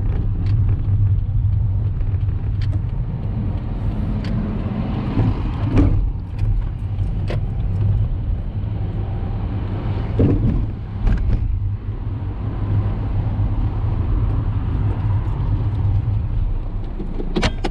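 Car engine and road rumble heard from inside the cabin while driving, steady and low, with a few faint scattered clicks.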